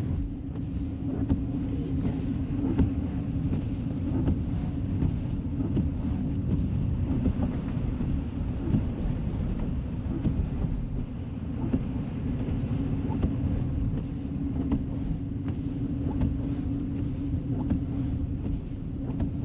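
Steady low rumble of a car's engine and tyres on the road, heard from inside the moving car, with faint scattered ticks.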